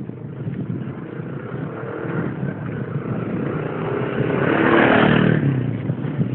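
A motorcycle engine passing close by, growing louder to a peak about five seconds in and then fading away.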